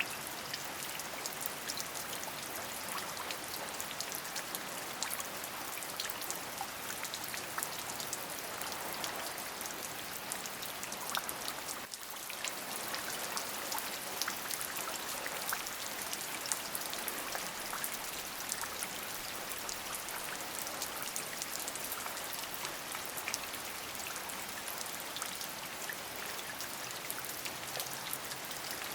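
Steady rain: an even hiss with many separate drops ticking through it, and a brief dip in level about twelve seconds in.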